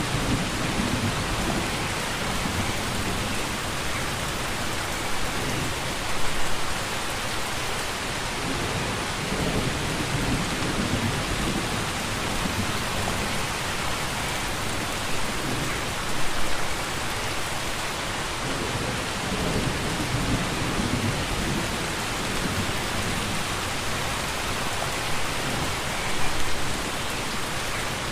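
Steady rain falling, with low rumbles of thunder coming and going underneath. Three short louder swells come about ten seconds apart.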